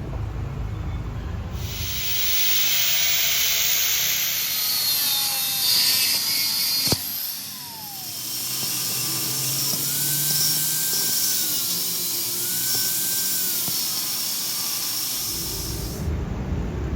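A power tool running with a loud, even, high hiss, which starts about two seconds in and cuts off about a second before the end. There is a sharp click about seven seconds in.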